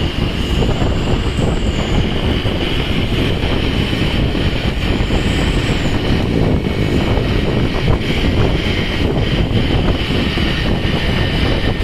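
Truck on the move: a steady, loud rumble of engine and road noise.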